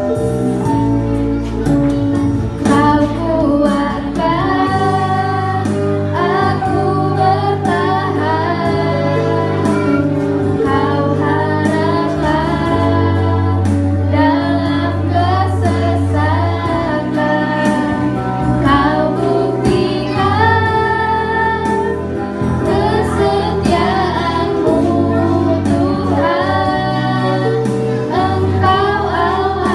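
A group of young singers, mostly female voices, singing a Christian worship song together over an instrumental accompaniment with long held bass notes.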